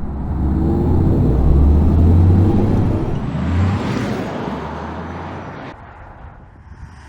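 Audi RS e-tron GT electric car driving by: a low rumble and tyre noise that swell, then fade away about six seconds in.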